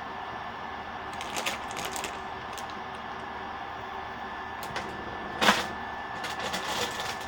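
Crinkles and clicks of a plastic bag of hard candy being handled, with one louder crackle about five and a half seconds in and more rustling near the end, over steady faint room hiss.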